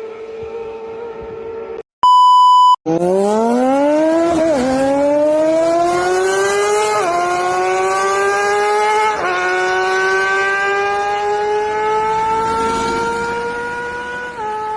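Kawasaki ZX-25R's 250 cc inline-four engine held at a steady high-pitched note, cut by a short electronic beep about two seconds in, then accelerating hard through the gears: the pitch climbs steeply and drops at each of four upshifts, pulling to a very high rev before each change.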